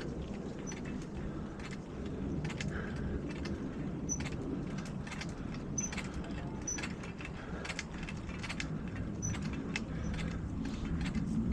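Bicycle riding noise: a steady low rumble of tyres and wind, with frequent sharp clicks and rattles from the bike.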